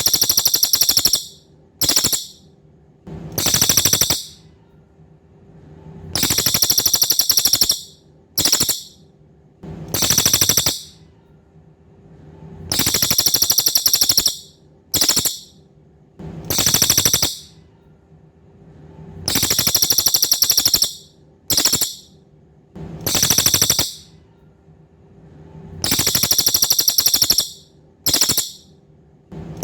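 A cililin bird singing loud, high-pitched, buzzy trilled phrases in a fixed pattern: a long trill, a short burst, then another long trill. The pattern repeats about every six and a half seconds, as a looped song-training recording for cage birds.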